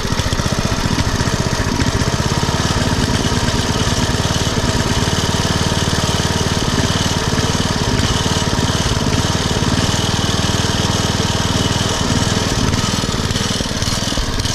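5 hp horizontal-shaft Briggs & Stratton single-cylinder engine on a garden tiller running steadily just after a cold start, speed revving up and down a little at idle before its tune-up. A rattle from a breaker bar resting on the machine rides over the engine, not a fault in the engine itself.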